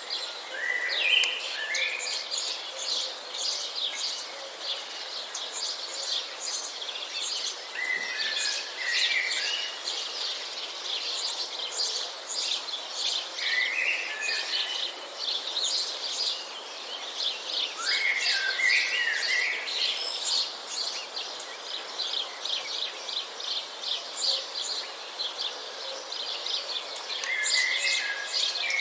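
A dense, steady chorus of small birds chirping. One bird sings a short whistled phrase that comes back every four to five seconds.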